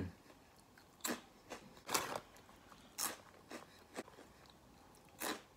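Crispy green pea stick snacks being bitten and chewed: about six separate crunches at irregular intervals.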